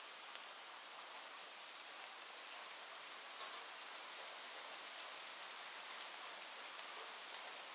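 Steady rain: an even hiss of falling rain with occasional sharper ticks, the clearest two about a second apart near the middle.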